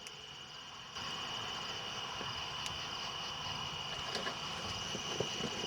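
Insects chirring steadily in a high band, with a few faint clicks. The background gets louder about a second in.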